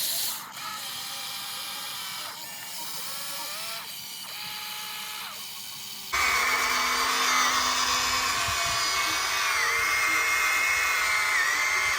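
Small electric motors and plastic gearboxes whining, the pitch gliding up and down as they work. About six seconds in, an abrupt cut brings in a louder high whine that dips now and then under load.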